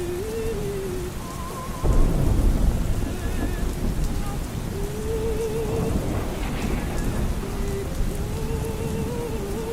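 Steady rain with a loud roll of thunder that breaks in about two seconds in. Faint, muffled opera music plays under it: a held melody line with a wavering vibrato.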